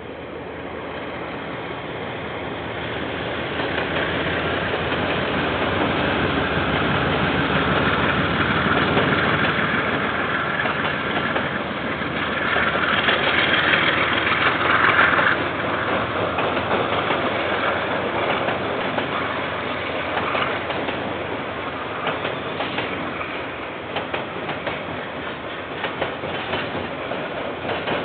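KiwiRail diesel-hauled train passing on the railway line. It grows louder over the first several seconds and is loudest about halfway through, then the wagons' wheels keep up a run of clicks over the rail joints.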